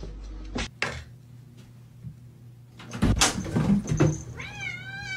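A few knocks and bumps about three seconds in, then a cat's long, drawn-out meow held at a steady pitch, starting near the end.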